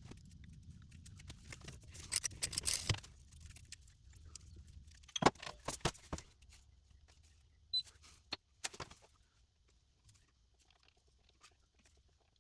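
Scattered metallic clicks and rattles of tools and parts being handled: a short rattling burst about two seconds in, a cluster of sharp clicks a few seconds later, and a few single clicks before it goes quieter.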